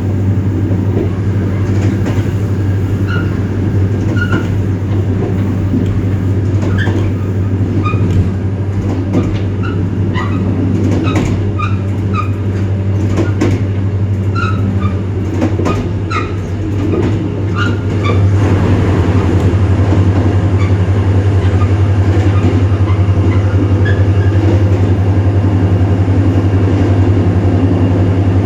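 EMD GT26CW-2 diesel locomotive's 16-cylinder two-stroke EMD 645 engine running under load with a deep steady drone. Short squeaks and clicks from the running gear come and go. About two-thirds of the way through, the engine sound steps up louder and fuller, as when the throttle is notched up, and then holds there.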